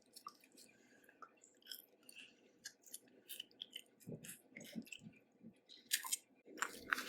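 Chewing and small wet clicks and crackles of someone eating boiled crawfish, growing louder near the end.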